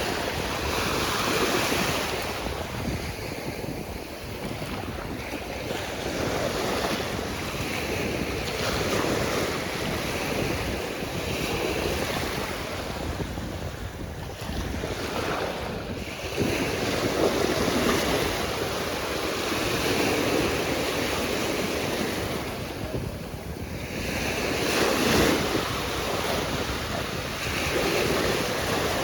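Ocean surf: waves breaking and washing up the shore, the noise swelling and ebbing every few seconds, with wind rumbling on the microphone.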